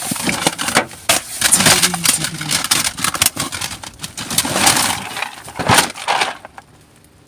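Plastic DVD cases and other rubbish clattering and rustling as they are rummaged through in a bin: a dense run of knocks and clicks that stops about six seconds in.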